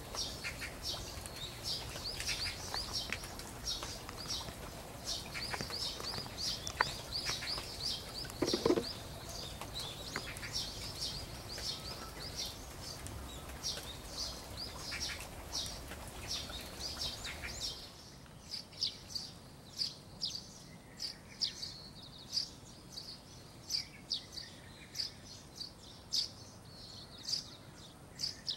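Small birds chirping rapidly and repeatedly over a steady hiss of rain. About eighteen seconds in, the rain hiss drops away and the chirps continue, sparser and more distinct.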